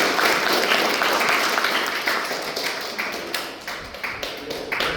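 Audience applauding in a hall, the dense clapping thinning out into scattered single claps and fading away.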